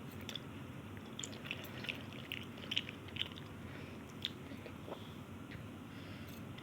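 A person chewing Maggi instant noodles close to the microphone: irregular wet mouth smacks and clicks, thickest in the first few seconds, over a steady low hum.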